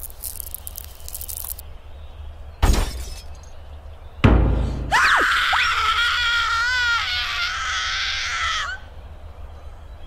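Cartoon sound effects: a thump about three seconds in, then a loud crash of a peanut butter jar smashing a little over a second later, followed by a high, wavering squeal from the squirrel character that lasts nearly four seconds and sinks slightly in pitch.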